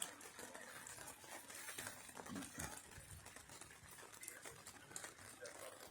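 Faint rain pattering: a soft, even hiss with scattered small drop ticks.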